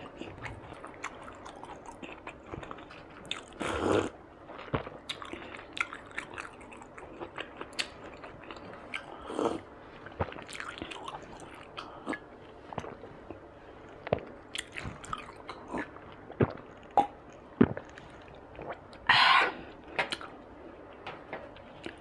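Close-miked wet chewing and mouth clicks of someone eating soft grilled Chinese sausage (lạp xưởng), with a few longer, louder mouth noises along the way.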